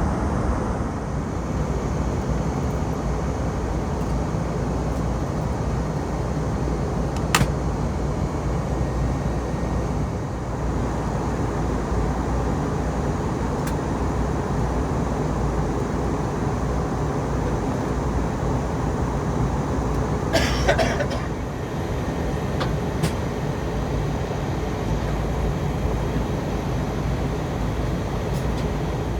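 Steady low rumble of an Airbus A320's passenger cabin, with a single sharp click about seven seconds in and a short rattle about twenty seconds in.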